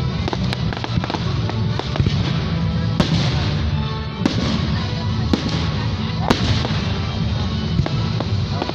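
Fireworks going off in a dense, continuous crackle, with about five sharper bangs standing out through the display.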